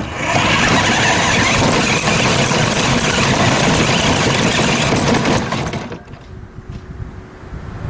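1/8-scale RC Silverado truck running loudly, a steady rushing noise that cuts off sharply after about five and a half seconds.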